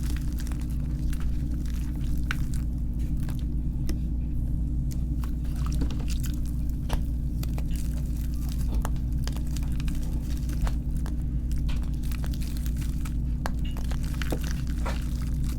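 Reformed gym chalk being crushed, sped up: a scattered run of soft crunches, squishes and crackles over a steady low hum.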